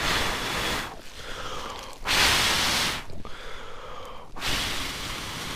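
A person blowing hard on the embers of a campfire that has died down, to revive it: three long blows about a second each, the middle one the loudest.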